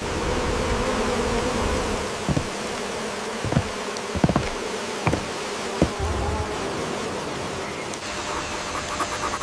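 A buzzing insect droning close by, its hum wavering, over a steady hiss, with several short sharp knocks about midway.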